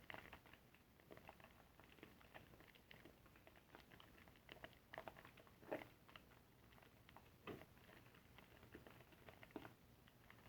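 Faint wet squishing and crackling of a soapy car sponge being squeezed and worked by hand, the lather giving irregular small pops and squelches, with a couple of louder squelches about halfway through.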